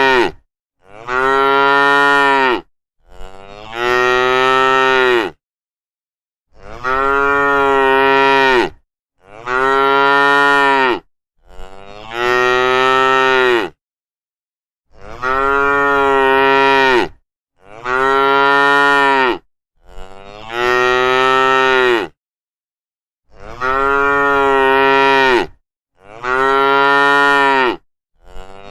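Cattle mooing: a string of about ten long moos, each around two seconds, following one another with short gaps.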